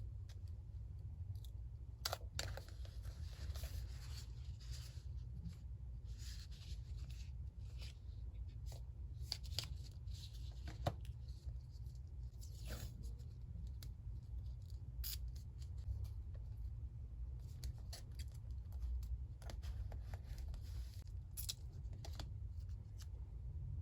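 Paper crafting sounds: scissors snipping and paper tearing in short rustling strokes, with scattered sharp clicks, over a steady low hum.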